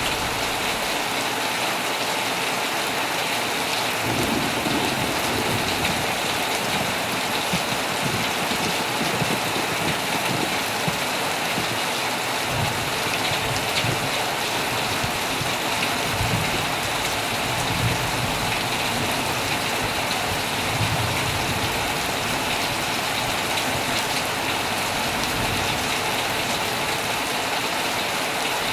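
Heavy rain falling steadily on a tent, with low rumbles of thunder swelling and fading now and then.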